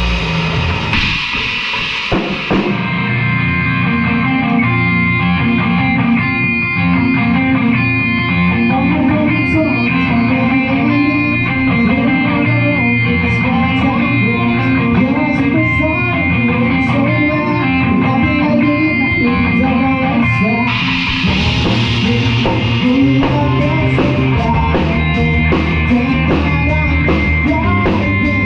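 A live rock band playing guitar over a drum kit, with a steady beat; the sound gets brighter about three-quarters of the way through.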